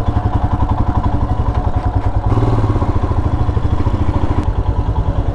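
Royal Enfield Himalayan's single-cylinder engine running steadily under way, a quick even pulsing thrum heard from the rider's helmet mic.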